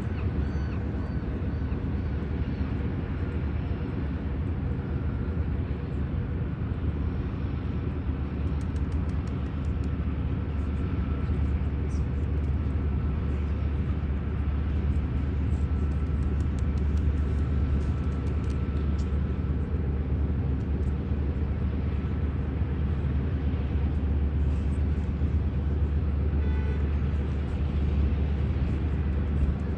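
Floatplane radial engine running steadily at low power, a low, even rumble.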